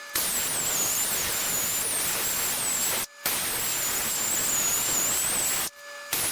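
TIG welding arc on a cast iron handle: a steady hiss with a faint wavering high whine, cutting out briefly about three seconds in and again near the end as the arc stops and restarts.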